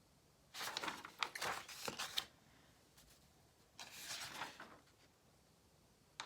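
Paper rustling and crinkling in two bursts, as printed sheets are handled and turned, with one short click near the end.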